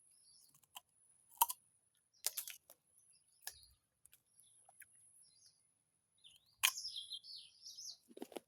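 Sharp, crisp crunches of a guava being bitten and chewed close to the microphone, a handful spread out, the loudest about one and a half seconds in and again near seven seconds. A bird chirps in a quick run of short notes in the second half.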